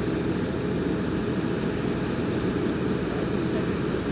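Heavy truck diesel engine running steadily with a dense, even low rumble.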